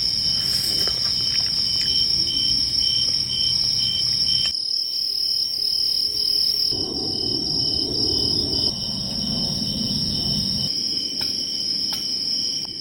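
Night insect chorus of crickets: a steady high trill, with a second insect chirping in an even pulse for the first few seconds. Some low rustling noise comes in about seven seconds in.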